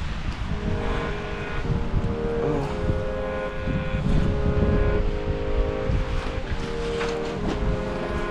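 A car being driven: a steady low rumble of engine and road noise, with a steady drone whose pitch shifts every second or so.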